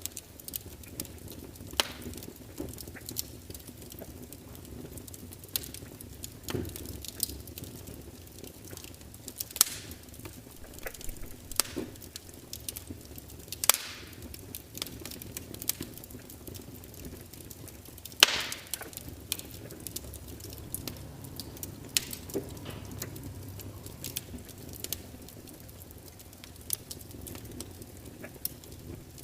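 Log fire burning with a low, steady hiss and rumble and irregular sharp crackles and pops, a few louder snaps among them, about 18 seconds in the loudest.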